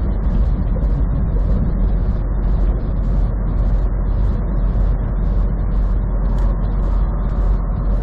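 Steady road and engine noise heard from inside a moving vehicle at highway speed, strongest in the low rumble.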